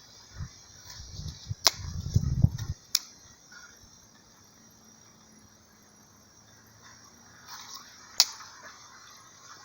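Three sharp cracks of dry twigs at a small twig campfire: about a second and a half in, again a second later, and near the end. A steady high insect hiss runs underneath, with a low rumble in the first few seconds.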